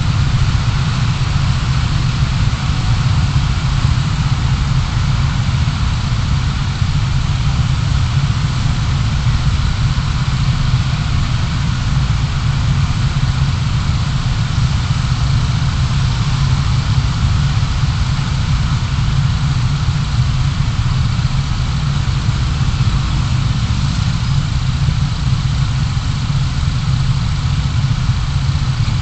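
Steady low rumble of a car's engine and road noise heard from inside the cabin, holding level throughout.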